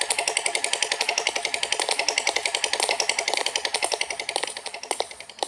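A rapid mechanical rattle of about a dozen clicks a second that slows and fades, ending in a few separate clicks near the end.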